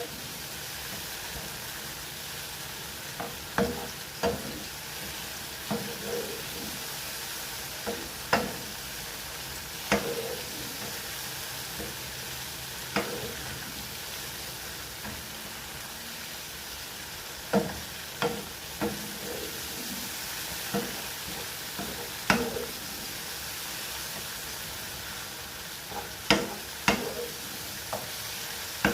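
Mushrooms sizzling as they fry in oil in a pan. A utensil stirring them knocks and scrapes against the pan now and then.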